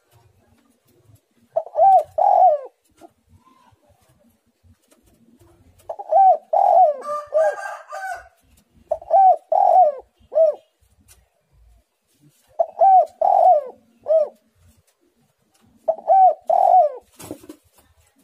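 Spotted dove cooing: short phrases of two or three low, rounded coos, repeated every few seconds. A sharp click sounds near the end.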